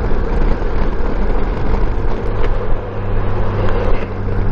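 2015 Honda Gold Wing F6B motorcycle's flat-six engine running underway, with wind and road noise. The engine's low hum gets a little stronger just under three seconds in.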